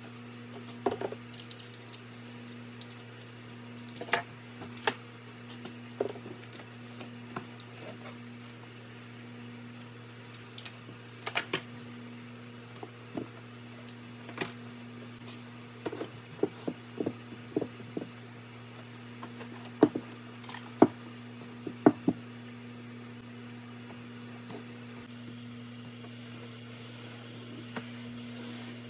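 Small objects being picked up and set down on a wooden dresser during cleaning, giving irregular sharp clicks and knocks over a steady low hum. A soft wiping hiss comes in near the end.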